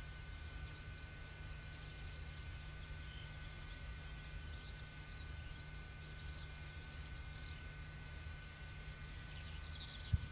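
Faint open-field ambience: a steady low rumble, a few faint steady tones, and scattered faint high chirps. A single sharp thump comes near the end.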